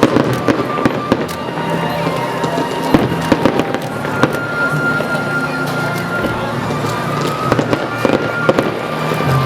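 Fireworks display: shells bursting in an irregular run of bangs and crackles, with music playing underneath.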